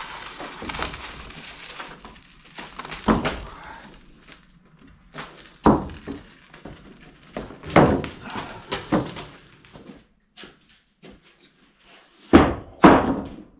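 A series of irregular heavy thuds and knocks, about six loud ones, the last two close together near the end. A rustling, scraping noise fills the first couple of seconds and the gaps between them.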